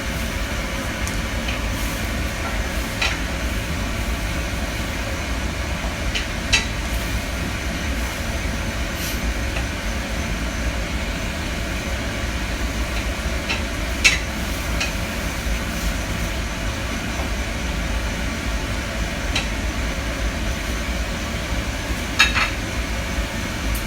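Steady rushing noise of a pot of water boiling on the stove as broccoli and carrots blanch, with a few light clicks of a utensil against the pot.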